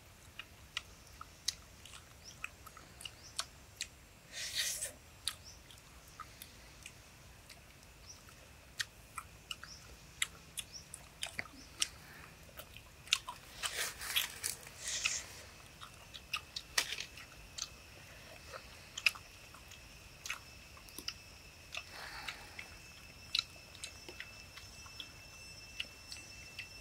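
Close mouth sounds of cooked pig intestine being bitten and chewed: many short clicks and smacks, with a few longer, louder bursts. Near the end a steady high-pitched tone joins in.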